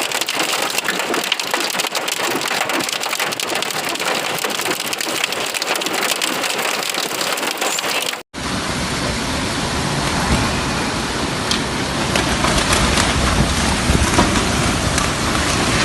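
Heavy storm rain pelting down, thick with sharp patters. About halfway through it cuts to another recording of the storm with a strong low rumble under the rain.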